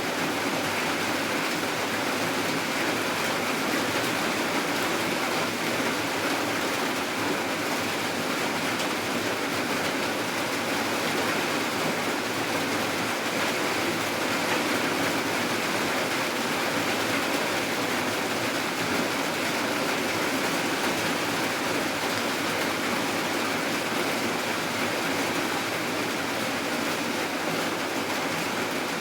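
Steady heavy rainfall, a constant even hiss without distinct drops or breaks.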